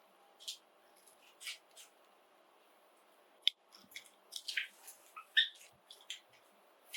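Pet Java sparrows giving short, sharp chirps: a few scattered calls at first, then a quicker run of them in the second half.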